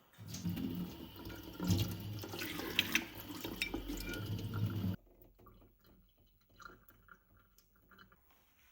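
Water running from a kitchen tap into a sink for about five seconds, then cut off suddenly, followed by faint small clinks.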